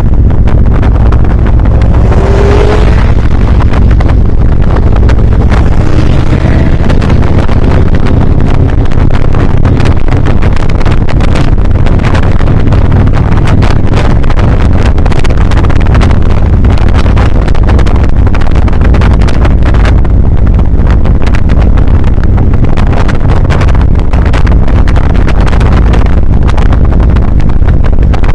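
Motorcycle riding at road speed, heard as loud, steady wind rush and engine noise on a bike-mounted camera, with brief rising engine notes about two and six seconds in.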